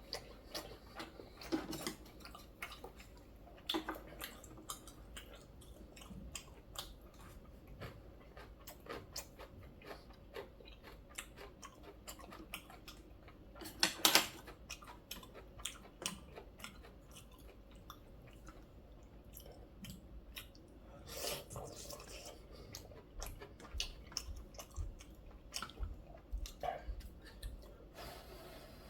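A man chewing and eating green tea kalguksu noodles and sujebi close to the microphone: soft wet chewing with scattered mouth clicks, and one louder burst about fourteen seconds in.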